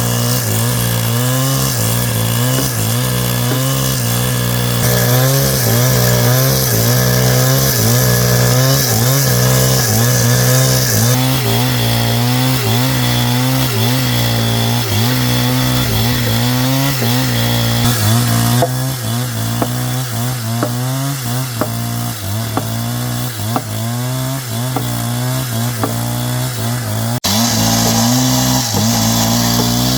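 Motorised power tool cutting into wood, its motor note wavering as the load changes.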